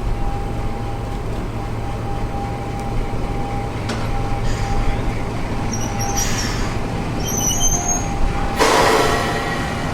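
Class 50 diesel locomotive idling at the platform: a steady low rumble with a held tone over it. About six seconds in come a few brief high squeals, and near the end a short loud burst of hissing.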